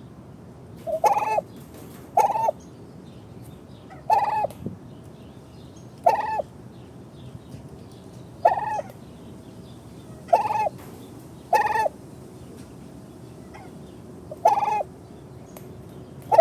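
Turkey gobbling again and again: about nine short, rattling gobbles, each roughly a third of a second long, every one to three seconds.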